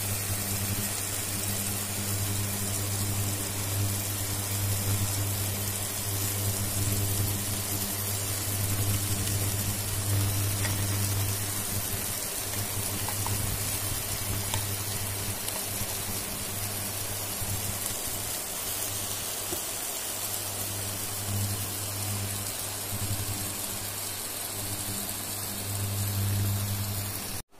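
Onion, tomato and spice mixture sizzling as it fries in a pan, with a low electrical hum that swells and fades. The sound cuts off abruptly near the end.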